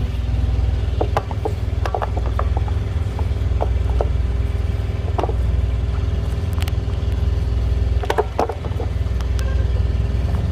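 Semi truck's diesel engine idling steadily, with scattered light clicks and knocks over it.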